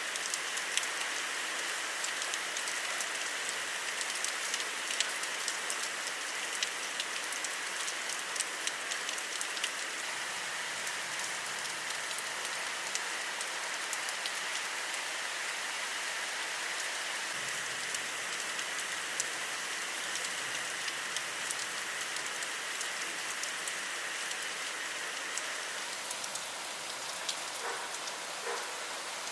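Monsoon rain falling steadily, a continuous hiss with frequent sharp ticks of individual drops striking nearby surfaces. The ticks come thickest in the first ten seconds or so and thin out toward the end.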